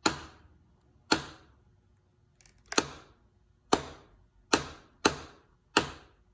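Sharp taps on the underside of a scored piece of glass in a copper-foiled stained glass window, about seven at uneven spacing, roughly one a second, each with a brief ring. The tapping runs the score lines so that the glass cracks along them, to break out a broken piece.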